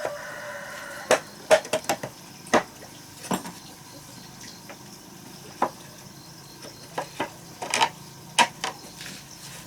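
Irregular sharp knocks and clinks of hard objects, about a dozen spaced unevenly, with a short pitched squeak in the first second.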